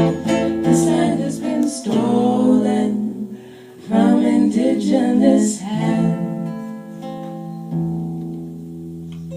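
Singing with strummed acoustic guitar, the last sung phrases giving way to a long held chord that rings on through the final few seconds.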